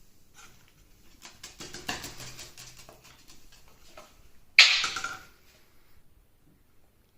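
Eclectus parrot moving about on a tabletop, a quick run of clicks, taps and scratches from its claws and beak, then one short, loud, harsh sound about four and a half seconds in.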